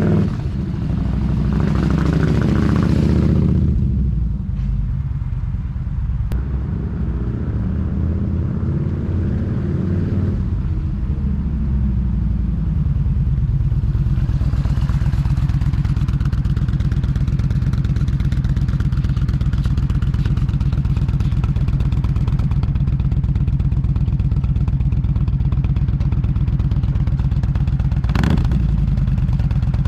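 2013 Yamaha V-Star's V-twin engine revved twice, its note rising and falling, then settling into a steady idle about a third of the way in. There is a short knock near the end.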